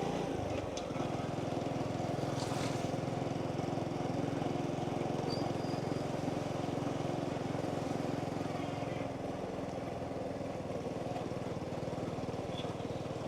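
Small motorbike engine running steadily while riding along, a constant hum without changes in speed.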